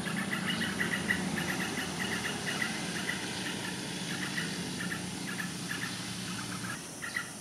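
Birds chirping in quick, repeated short notes, over a steady low engine hum that stops near the end.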